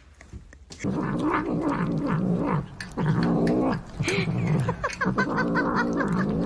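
Cat yowling: long, low, wavering cries that start about a second in and come in three drawn-out stretches.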